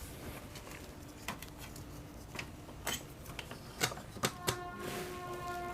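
Scattered small clicks and taps, about six of them a second or so apart, from handling a replacement electrolytic capacitor and the amplifier circuit board while the capacitor is fitted for soldering.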